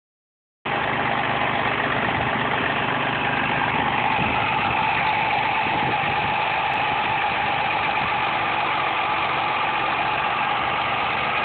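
Mercury Cougar's 2.5-litre Duratec V6 idling steadily with a constant whine over the engine sound, a noise the owner suspects comes from the power steering pump.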